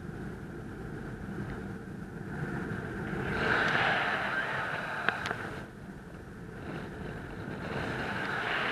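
Wind rushing over the microphone in flight, swelling and fading, with one sharp click about five seconds in.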